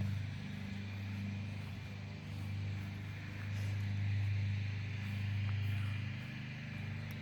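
A steady low motor drone that swells and fades every second or two.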